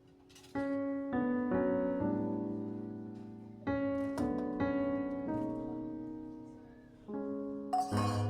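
Soft background piano music: slow chords and single notes struck in short phrases, each left to ring and fade.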